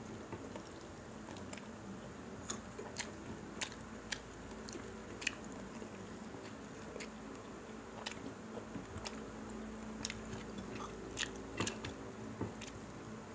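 Close-up eating sounds of crispy pata, deep-fried pork knuckle: chewing and crunching with scattered sharp little crackles and clicks as the crisp skin and meat are torn by hand and bitten, a few a second, over a faint steady hum.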